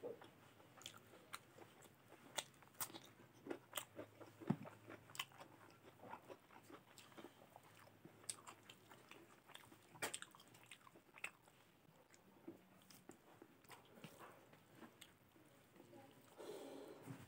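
Close-up chewing and crunching of a mouthful of rice, mutton curry and raw vegetables: a quiet, irregular string of sharp crisp clicks with wet mouth sounds.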